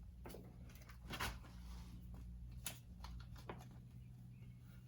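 A few light clicks and taps of small engine parts and hardware being handled at the crankcase, the sharpest about a second in, over a faint steady low hum.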